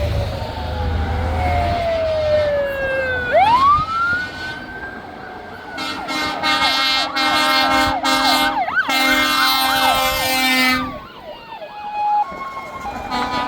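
Fire engine sirens: one siren winds down in pitch, and about three seconds in another winds up. From about six seconds a loud horn chord sounds for about five seconds, broken briefly near the middle, under a fast-yelping siren.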